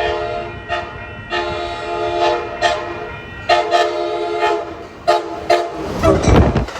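Horn of a speeding Amtrak cab car sounding a multi-note chord in two long blasts and then two short ones. A loud rumble of the train rushing past follows near the end.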